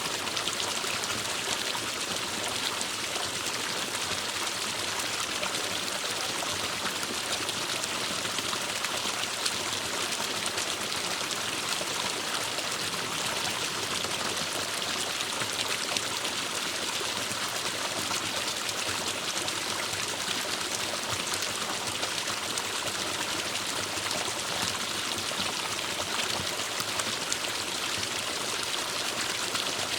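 Forest stream flowing steadily over rocks, an even rushing and trickling of water.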